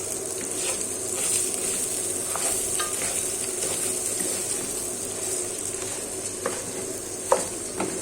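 Thickened tomato sauce sizzling in a pot as it is stirred, with a spoon knocking against the pot a few times, the loudest knock near the end.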